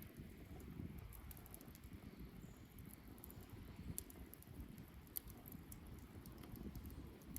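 Wood bonfire burning, with scattered sharp crackles and pops from the burning wood over a low, steady rumble.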